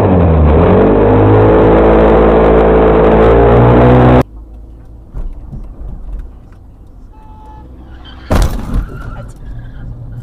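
A vehicle engine running loud and steady, its pitch dipping then climbing again about half a second in. It cuts off abruptly a little after four seconds to quieter road noise, and about eight seconds in comes a sudden loud impact bang.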